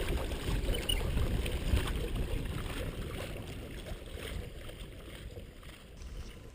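Strong wind buffeting the microphone on a small boat in rough water, a gusty low rumble that eases a little toward the end.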